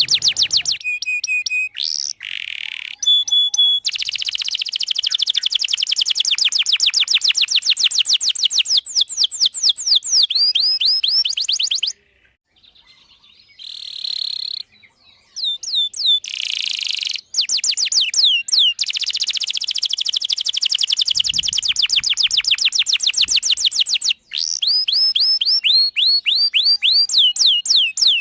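Domestic canary singing a long, continuous song of fast trills: rolls of quick downward-sweeping notes repeated many times a second, broken by a short pause near the middle.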